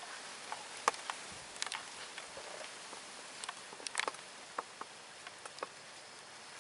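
Scattered light clicks and taps at irregular intervals over a steady hiss of strong wind.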